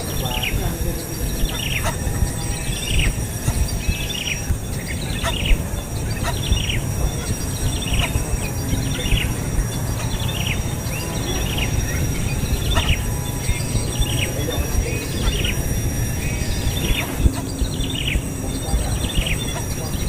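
A bird giving short, falling chirps over and over, about one every two-thirds of a second, over a steady high insect drone.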